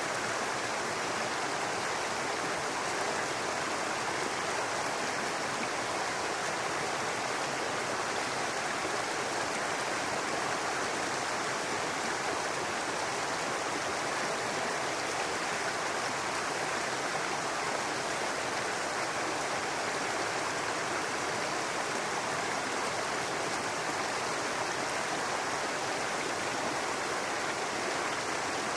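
Brook water running and babbling over rocks, a steady rushing sound with no breaks.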